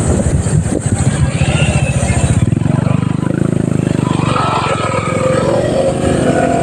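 Motorcycle engine running under way, a steady stream of firing pulses that swells louder about halfway through.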